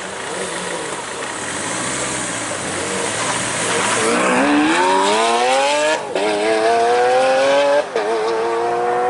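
Lamborghini Aventador S's V12 accelerating hard. After a few seconds of rushing noise, the engine note climbs steadily in pitch, with two quick upshifts, each a brief break in the sound and a drop in pitch, before it climbs again.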